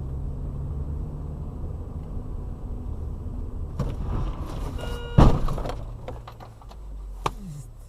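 Steady vehicle running and road noise, then a loud crash impact about five seconds in, with a smaller sharp knock a couple of seconds later.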